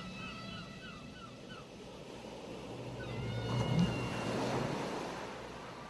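An ocean wave surging up the shore: the wash builds from about halfway in, is loudest about two thirds in, then ebbs away. In the first second and a half there is a quick run of short, high, repeated calls.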